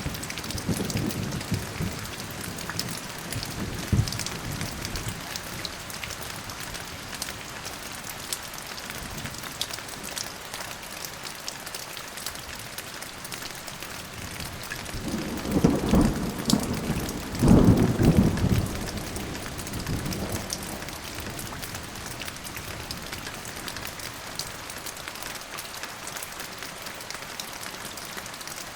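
Steady rain falling, with rolls of thunder. A few low rumbles come near the start, and two stronger thunder rumbles come close together a little past halfway.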